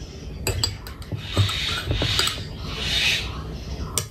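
Close-miked chewing of a mouthful of rice and oily meat pickle, with sharp mouth clicks every so often.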